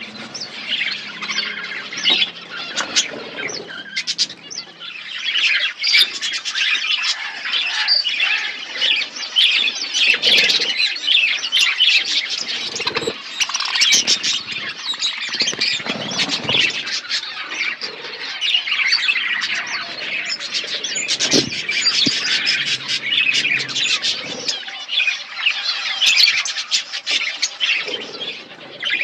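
A colony of budgerigars chattering and chirping continuously, many birds calling at once, with a couple of brief knocks.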